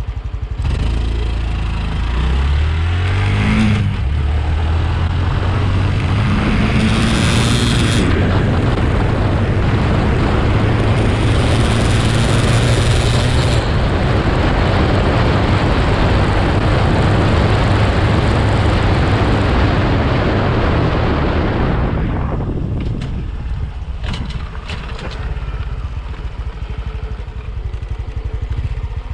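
Honda CT125's air-cooled 125 cc single-cylinder engine at full throttle, pulling from a standstill up through the gears: the pitch climbs in each gear and drops briefly at each shift, about 4 s and 8 s in, while a rushing noise builds with speed. About 22 s in the throttle closes and the engine falls back to a low steady run, with a few sharp clicks soon after.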